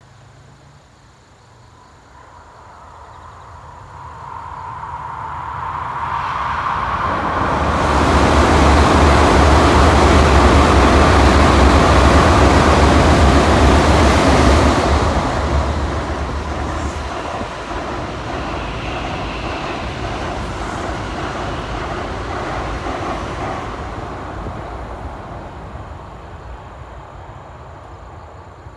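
Two Shinkansen bullet trains passing each other at speed in opposite directions: a rushing rumble that swells over several seconds, is loudest in the middle with a heavy low rumble, eases to a lower steady rush as the second train goes by, then fades away.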